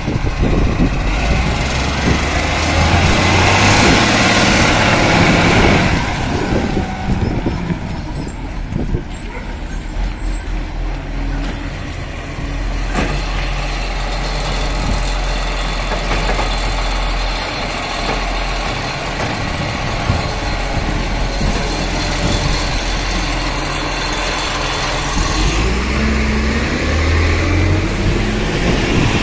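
Garbage truck engine running, with a loud hiss for a few seconds near the start, a brief high squeal a little later, and the engine revving up near the end.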